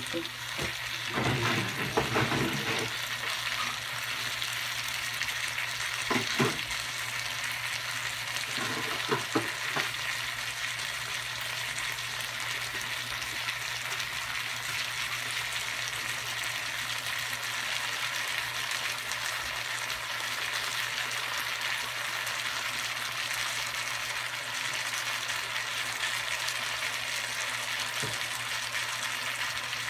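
Squash and long beans sizzling steadily as they sauté in a non-stick frying pan, with a few knocks and scrapes of a stirring utensil in the first ten seconds. A faint steady low hum lies underneath.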